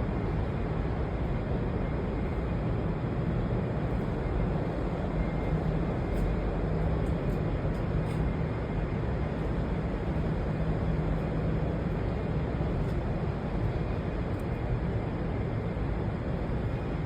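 AVDS-1790 air-cooled V12 diesel engine of an M88A2 recovery vehicle running at a steady speed, with a deep even drone.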